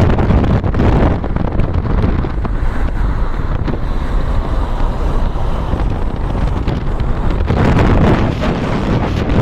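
Wind buffeting the microphone: a loud, low, rumbling rush that swells about seven and a half seconds in.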